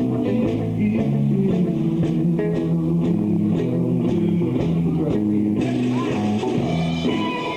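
Live blues-rock band playing an instrumental passage: electric guitars, bass guitar and drums, with a lead guitar line coming in brighter over the rhythm near the end.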